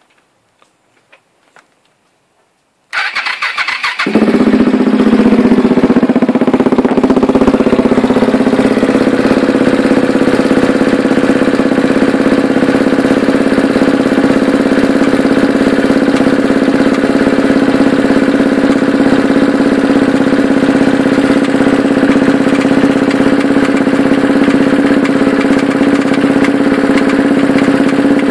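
A 2007 KTM 690 SM's single-cylinder engine is cranked on the electric starter for about a second, catches and settles into a steady idle. About three-quarters of the way through, the rattle the owner cannot explain sets in; he finds it strongest with the bike on its sidestand and gone when it leans right.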